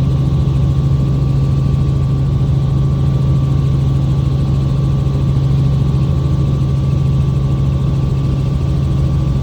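Helicopter engine and rotor running in flight, heard from inside the cabin: a loud, steady drone with a low hum and a constant higher whine.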